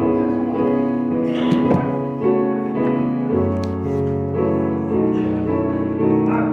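Keyboard music: slow, held chords that change about once a second.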